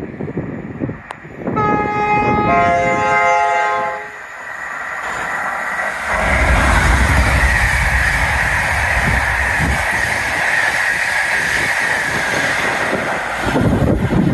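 Class 90 electric locomotive sounding its two-tone horn about two seconds in, one chord then a second at a different pitch. The train then passes at speed, a loud steady rumble of wheels and coaches with a high hiss.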